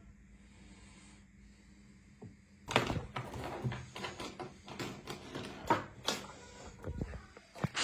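A kitten playing with a pen: irregular clicks, taps and scuffles of the pen and paws, starting about three seconds in after a faint steady hum.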